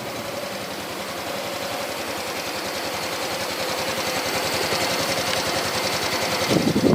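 Yamaha Axis Z scooter's 125cc fuel-injected single-cylinder engine running steadily, an even rapid mechanical patter that grows gradually louder.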